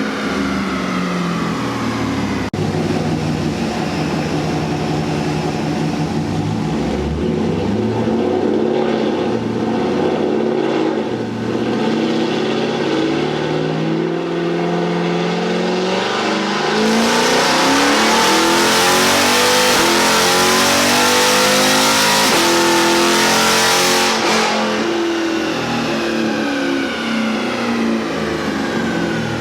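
Chevrolet Camaro V8 on a chassis dyno, engine revving through a run with its pitch climbing and falling. It is loudest for about seven seconds past the middle, then the revs wind down near the end.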